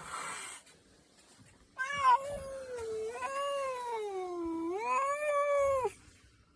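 Angry domestic cat's single long, drawn-out yowl, its pitch sagging in the middle and rising again before it stops abruptly. It is preceded by a brief rush of noise.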